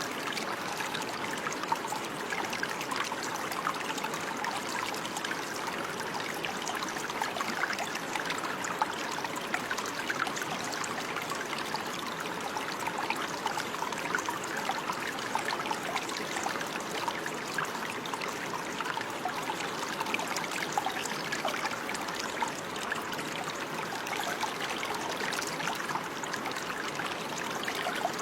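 Water running and trickling in a steady stream, with constant small splashes and bubbling.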